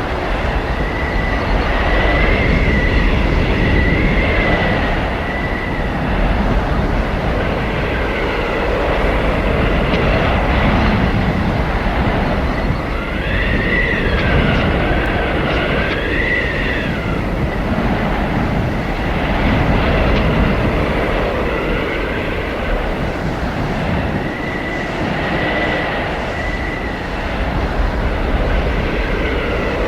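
Howling blizzard wind: a steady, rumbling roar of gusts that swells and eases, with a high whistling howl that rises and falls in pitch, strongest about halfway through.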